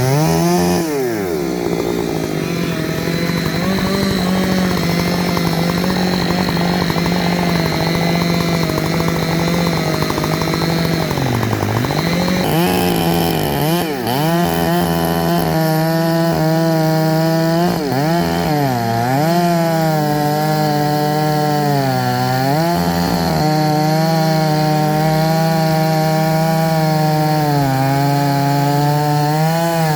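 Two-stroke chainsaw running at full throttle while cutting poplar wood, its engine note dipping briefly several times as the chain bogs in the cut and then climbing back.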